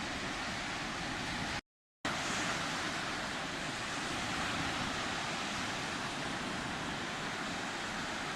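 Sea surf: a steady, even wash of waves breaking on the shore. It cuts out completely for under half a second about a second and a half in, then resumes.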